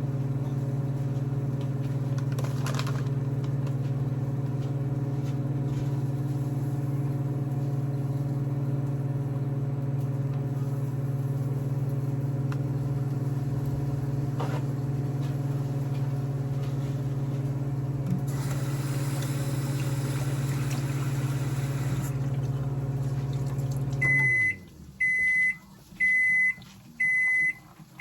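Microwave oven running with a steady hum, which winds down about 24 seconds in, followed by its end-of-cycle alert, a series of high beeps about once a second, signalling the heating is done.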